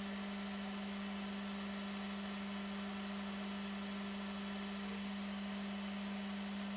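Metal lathe running with a steady hum and whir while it takes a light cut of about 0.2 off the yoke's flange.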